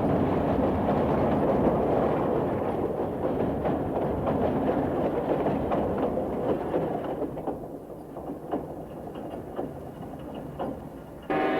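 Stereo sound-effect recording played from a Super-8 film soundtrack: a loud rumble with scattered clicks that fades away over several seconds, then a siren starts abruptly just before the end.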